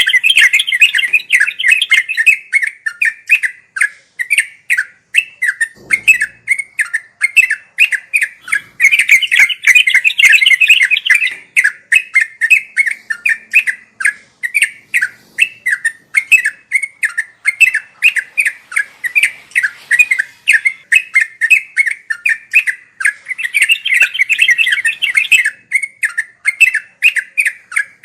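Yellow-vented bulbul (trucuk) singing a continuous rapid chattering song (ngeropel): short bubbly notes repeated a few times a second, breaking into denser chattering flurries three times.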